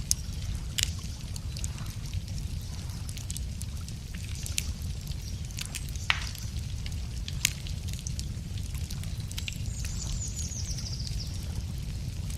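Wood fire crackling with scattered sharp pops over a steady low rumble. A bird gives a short, high, descending trill near the end.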